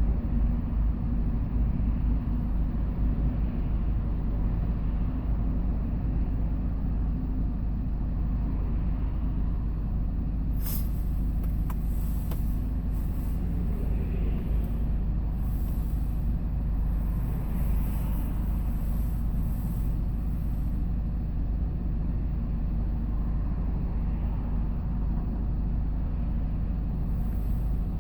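Hyundai Porter 2 box truck driving, heard from inside the cab: a steady low engine and road rumble with no change in level, and a single brief click about ten seconds in.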